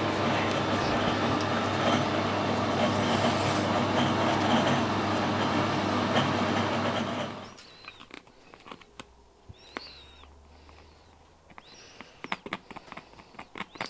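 A machine-shop machine runs steadily, then stops about seven and a half seconds in. Light metallic clicks and clinks of parts and tools follow.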